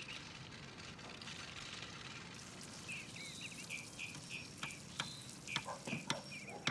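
A steady hiss with birds chirping from about two and a half seconds in, and a run of sharp ticks and knocks in the last two seconds.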